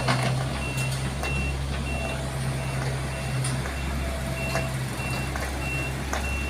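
Heavy-vehicle reversing alarm beeping steadily, about one and a half high beeps a second, over a diesel engine running, with a few sharp knocks.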